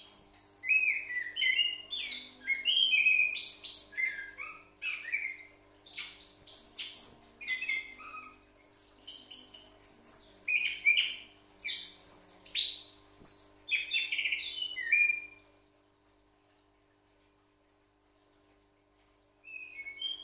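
Pet orange-headed thrush (anis kembang) in full song: a long run of quick, high whistled phrases and chattering notes that stops about three-quarters of the way through, with a few faint notes near the end.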